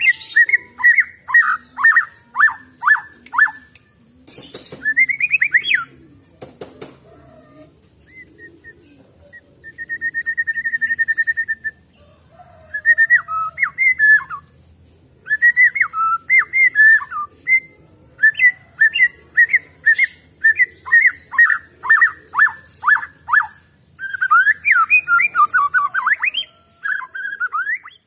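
White-rumped shama (murai batu) singing: phrases of quick, steeply falling whistled notes repeated in rapid series, with short gaps between phrases. A steady trilled note comes about ten seconds in, and a few harsh rattling notes about four to seven seconds in.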